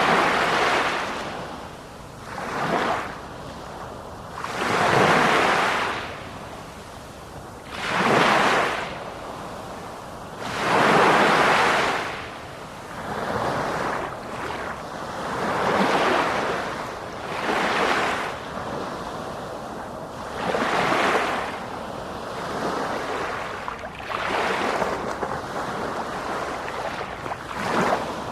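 Sea waves breaking and washing in, one surge after another every two to three seconds, each swelling and fading away.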